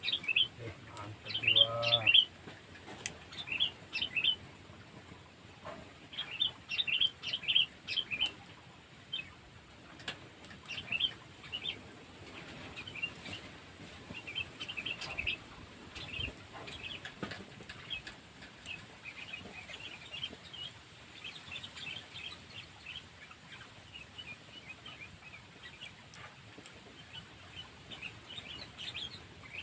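Small birds chirping and twittering, many short high calls in quick clusters, busiest in the first several seconds and then thinner and fainter.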